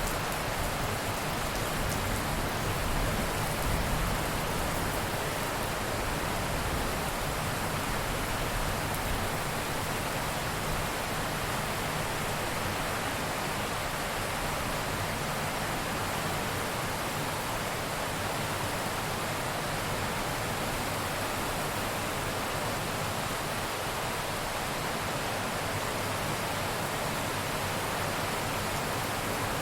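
Steady heavy rain, an even, unbroken hiss of downpour.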